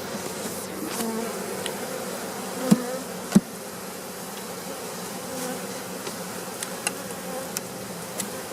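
Swarm of honey bees buzzing steadily around an opened hive, with a few sharp knocks, the loudest two about three seconds in.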